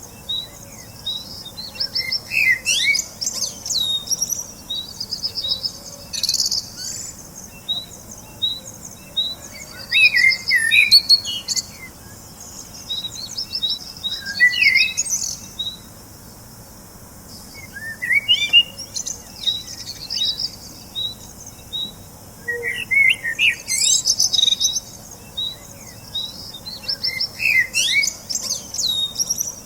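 Small birds chirping and twittering, with rapid series of short high chirps and trills that come in clusters every few seconds.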